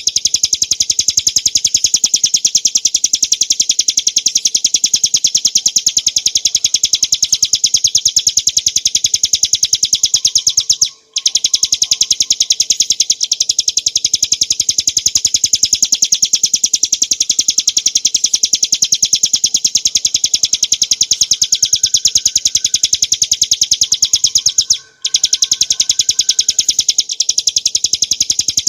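Bar-winged prinia (ciblek gunung) singing a rapid, unbroken rattling trill of fast-repeated high notes, with two brief pauses, about 11 and 25 seconds in.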